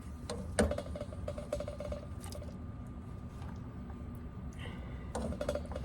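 Spoon and dish sounds while food is served onto a plate: a sharp clink about half a second in, then soft handling noises over a low steady hum.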